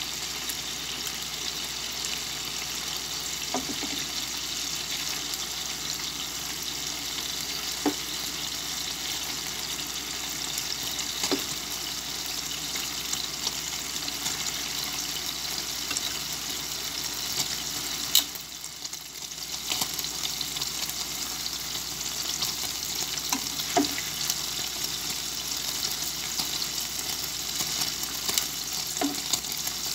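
Chicken pieces sizzling steadily as they fry in oil in a pan. Now and then a short click of metal tongs against the pan as pieces are lifted out; the sizzle dips briefly about two-thirds of the way through.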